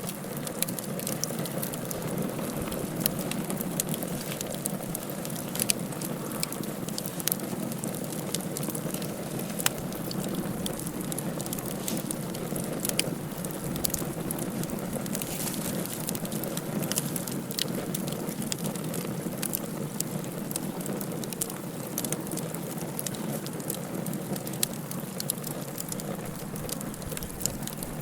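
Wood fire burning in a fireplace: a steady low rush of flame with frequent sharp crackles and pops at irregular intervals.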